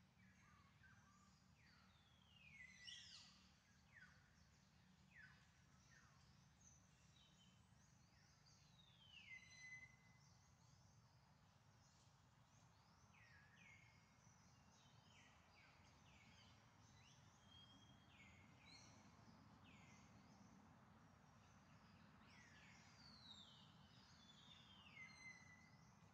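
Faint birdsong: many short whistled calls that sweep down in pitch, overlapping and scattered throughout, over a low steady hum.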